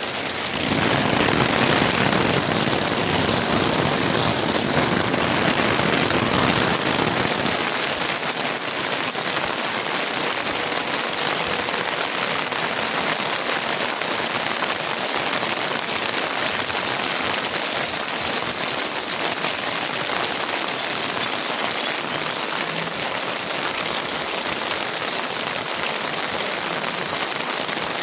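Heavy rain falling steadily and pattering on surfaces. For about the first seven seconds it is louder and fuller, then it settles to an even hiss.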